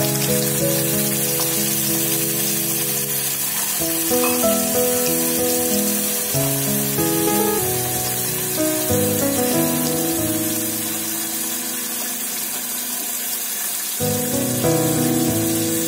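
Ground masala paste of onion, tomato, coconut and spices sizzling as it fries in hot oil in a steel pan, under background music of slow, held notes.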